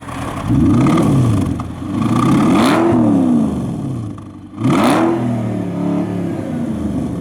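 Mercedes-Benz CL500 (W216) V8 revved through its tuned exhaust system: three quick throttle blips, each rising and falling in pitch, after which the engine settles back to a steady idle.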